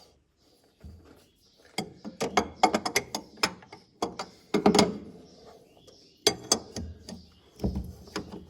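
Ratcheting gear wrench clicking in quick runs as a bolt is turned, with knocks of metal on metal. The clicking starts about two seconds in and comes in bursts separated by short pauses.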